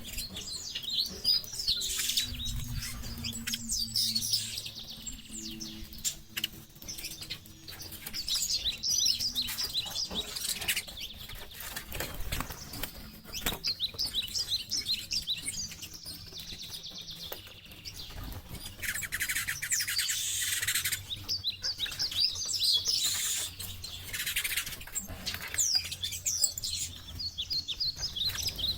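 Birds chirping and twittering, many quick high notes one after another, with a denser, buzzy stretch about two-thirds of the way through.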